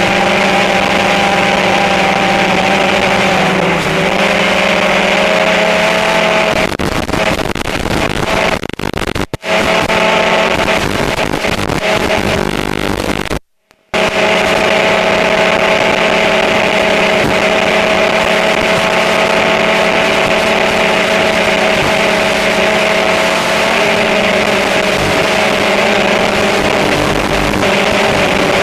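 Multirotor drone's motors and propellers whirring steadily with a pitched hum, which shifts slightly in pitch a few times. The sound cuts out for about half a second midway.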